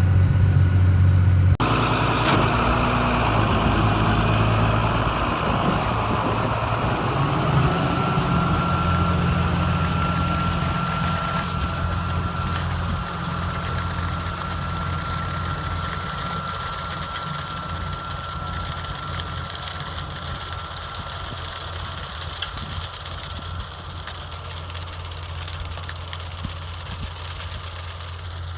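Tractor engine running steadily under load while powering a Meyer V-Max manure spreader that is emptying. A thin steady whine sits over the engine from about eight seconds in, and the whole sound grows steadily fainter.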